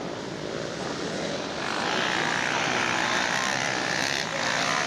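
Motocross bikes' engines revving hard as they race, getting louder about two seconds in.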